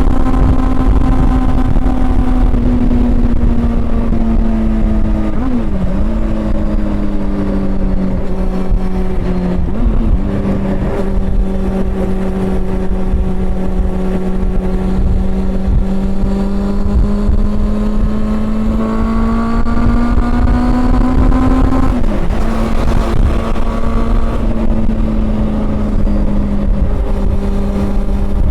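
Honda CB400 Super Four's inline-four engine running under way at a fairly steady pitch that sags slowly, then rises. Its note breaks briefly with a quick jump in pitch about four times: near 6 s, 10 s, 22 s and at the very end.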